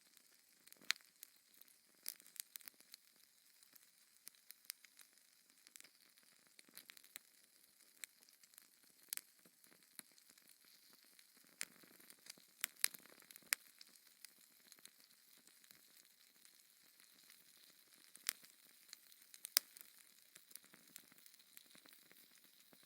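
Wood fire burning in a fireplace, crackling softly: irregular sharp pops and snaps over a faint hiss, with a few louder pops scattered through.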